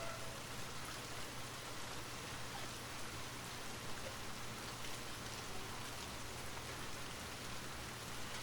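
Light rain falling steadily: an even, soft hiss with scattered individual drops ticking.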